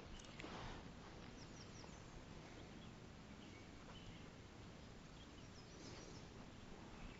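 Quiet outdoor lake ambience with a few faint, short bird chirps, about a second in and again near six seconds.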